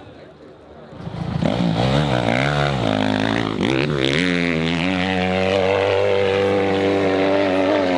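Dirt bike engine revving hard, coming in about a second in. Its pitch swings up and down with the throttle, then it is held high and steady.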